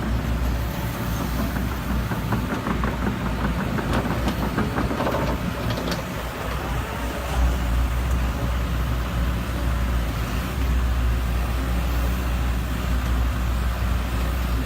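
Excavator's diesel engine running steadily, with a stretch of clattering about two to five seconds in.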